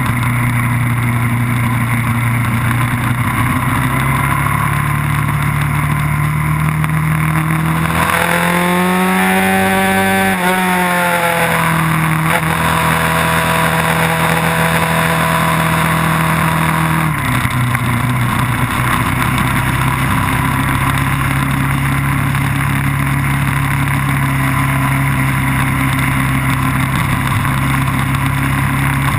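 Onboard sound of a vehicle engine running hard during a lap of a racing circuit, with a steady engine note under a rush of wind and road noise. The engine pitch swings up and back down between about eight and eleven seconds in, and the note shifts again around seventeen seconds in.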